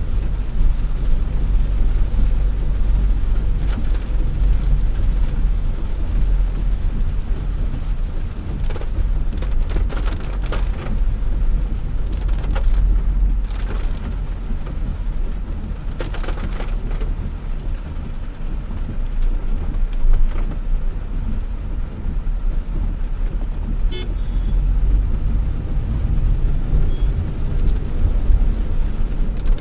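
A Honda Elevate being driven on wet roads in heavy rain: a steady low rumble of engine and tyres under a hiss of water, with a few brief swishes in the middle and a short high beep near the end.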